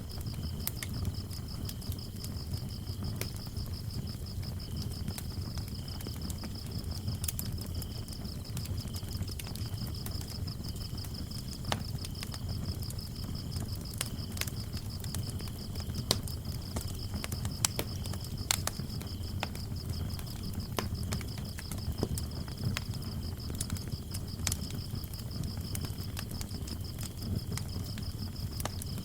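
Wood fire crackling with scattered sharp pops over a low steady rumble, while crickets chirp in a steady, fast-pulsing high trill.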